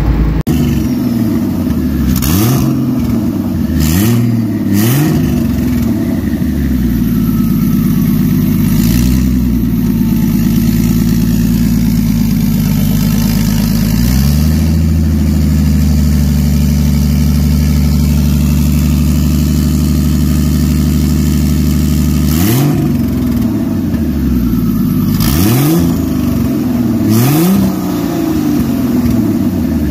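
Turbocharged BMW E36 M50-based inline-six being free-revved: several quick blips early on, then a steady idle for several seconds, then three more quick revs near the end. Each blip comes with a short hiss.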